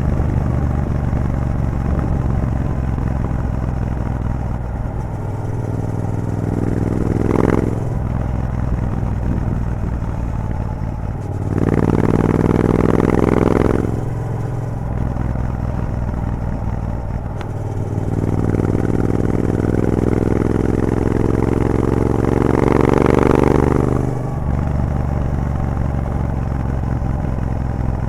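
Triumph Bobber's 1200cc parallel-twin engine running through a Vance & Hines exhaust with the catalytic converter removed, while riding. The engine pitch climbs under throttle three times, briefly about six seconds in, then around twelve seconds and for longer around eighteen seconds in, and falls back after each pull.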